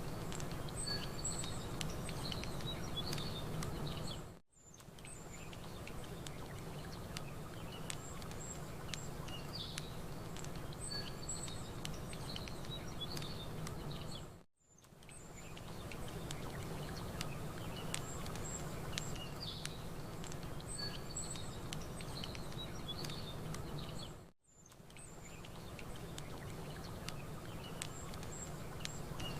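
Small birds chirping over a crackling campfire and a low, steady rumble. The mix is a loop about ten seconds long that dips briefly to silence three times.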